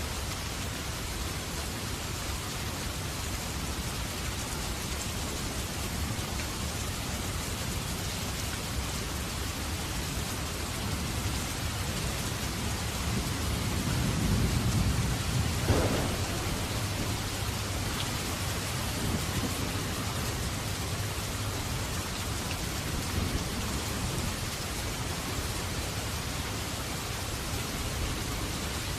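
Steady rain falling, with a low roll of thunder that builds about halfway through and ends in a sharp crack.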